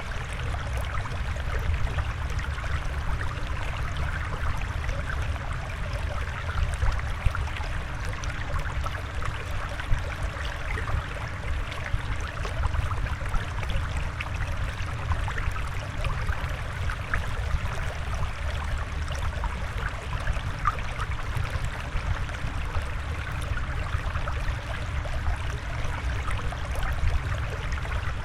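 Steady flowing water running continuously, with a low rumble and small scattered trickling ticks and pops.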